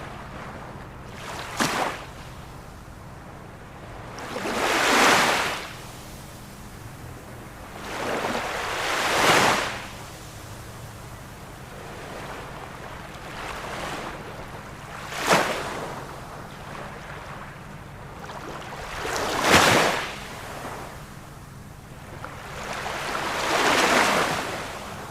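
Ocean waves breaking on a shore: six surges of wash about every four to five seconds, some building slowly and some peaking in a sharp crash, over a steady background wash.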